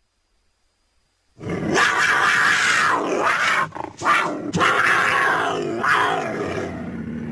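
Big-cat growling from mixed cheetah and cougar recordings, used as a creature voice for the extinct American cheetah. It starts about a second and a half in, breaks off briefly near the middle, then resumes.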